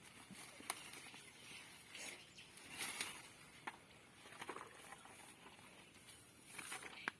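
Faint scattered sharp clicks and brief rustling noises, a few seconds apart.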